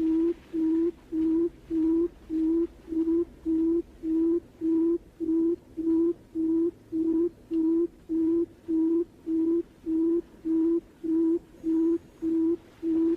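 Barred buttonquail call: a long, even series of low hooting notes at one pitch, a little under three a second.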